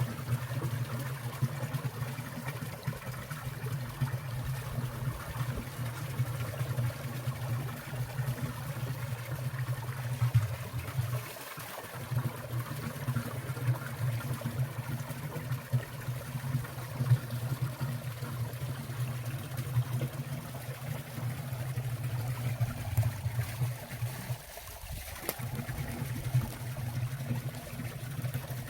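Water of a winter valley stream trickling and splashing steadily, with a strong low burble; the low part drops away briefly twice.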